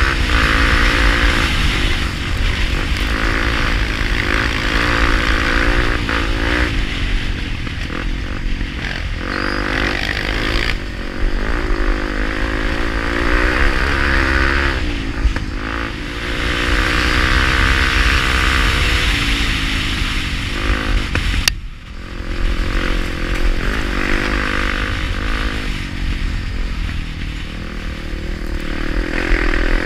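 Honda Tornado's single-cylinder four-stroke engine riding hard, its pitch rising and falling over and over as the throttle opens and closes and the gears change. About 21 seconds in the engine sound drops sharply for a moment, then picks up again.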